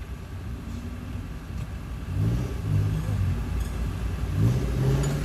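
Off-road 4x4's engine pulling at low speed while crawling over boulders, revving up about two seconds in and again near the end.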